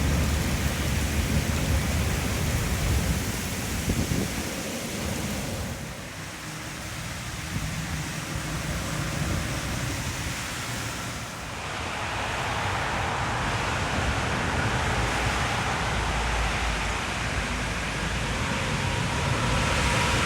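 Heavy rain pouring down in a thunderstorm, a steady rushing noise with low rumbling underneath. The sound changes abruptly about six and again about eleven seconds in.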